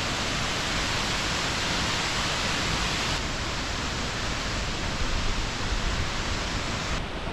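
Steady rushing roar of Victoria Falls, an even hiss of falling water and spray, brighter for the first three seconds or so and a little duller after that.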